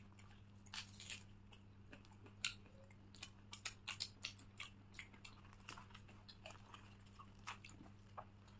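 Close-miked eating: irregular soft mouth clicks and smacks of people chewing food, several a second in places, over a faint steady low hum.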